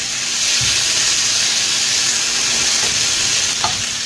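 Diced tomato, onion and chiles sizzling steadily in hot oil in a frying pan as they are stirred with a spatula.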